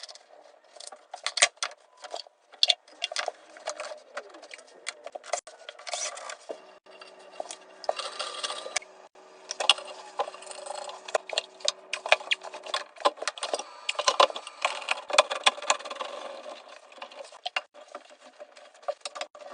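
Irregular clicks, knocks and rattles of hand work with metal tools and pipe fittings. A faint steady hum runs from about six to thirteen seconds in.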